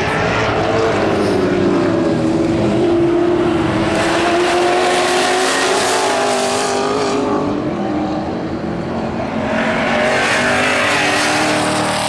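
Muscle car race engines running hard on track as cars race past, their pitch rising and falling with gear changes and speed, louder twice.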